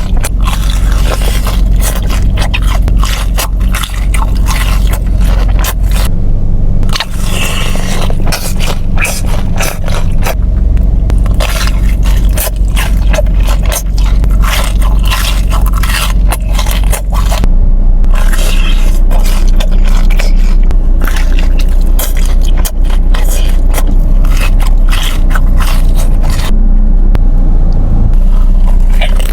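Close-miked eating: dense, irregular crunching and chewing of crispy fried food, over a steady low hum.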